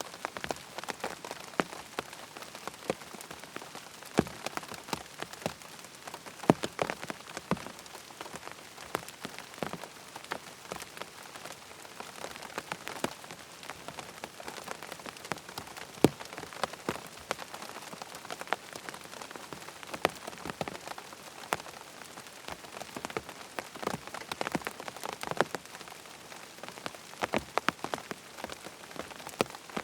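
Rain falling steadily on a tent's fabric: a constant patter with many separate, irregular drop hits, some louder and sharper than the rest.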